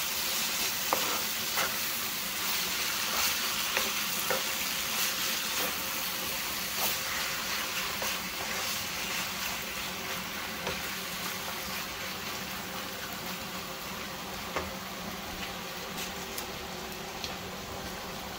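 Raw chicken pieces with tomatoes and onions sizzling in a hot nonstick wok, sautéed as they are stirred with a wooden spatula, with scattered scrapes and taps of the spatula against the pan. The sizzle gradually softens.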